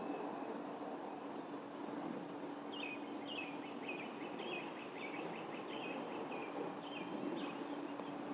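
A bird calling a quick series of short, high, downward-sweeping chirps from about three seconds in until near the end, over steady outdoor background noise with a faint low hum.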